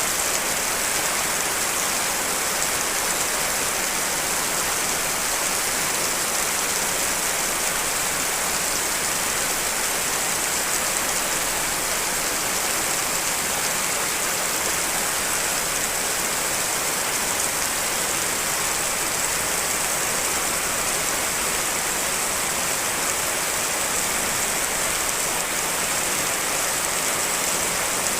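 Steady rain, a blend of several rain recordings layered into one even hiss.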